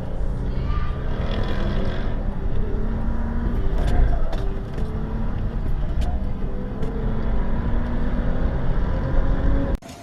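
Car engine running with road noise, a steady hum whose pitch slowly rises late on, with a few sharp clicks along the way. It cuts off abruptly just before the end.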